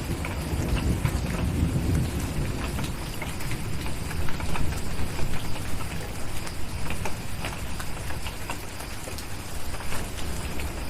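Steady rain with a low rumble of thunder that eases over the first two seconds or so. A wood fire crackles throughout with scattered sharp pops, loudest about four to five seconds in.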